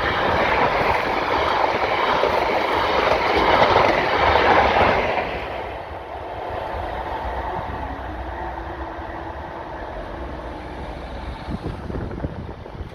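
A High Speed Train (HST) passing through the station with clattering wheels. It is loud for about the first five seconds, then drops to a lower, steady rumble as it draws away, with a faint steady hum in the second half.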